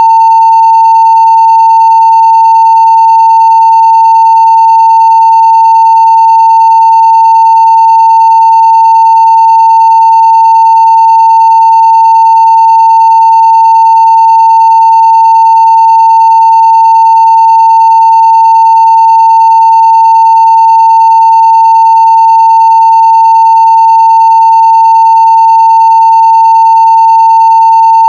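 Steady 900 Hz sine-wave test tone at full scale (0 dB), unbroken and unchanging, with faint higher overtones above it.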